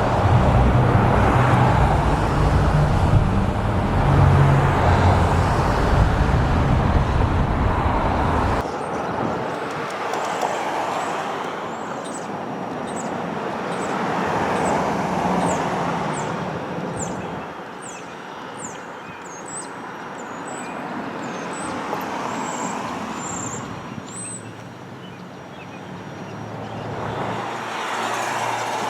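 Loud, low engine rumble from heavy machinery that cuts off abruptly about 8–9 seconds in. Vehicle noise then swells and fades twice, with small birds chirping in quick falling notes.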